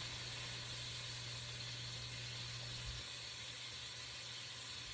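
Chicken pieces searing in hot oil in a pot: a steady sizzle. A low hum underneath stops about three seconds in.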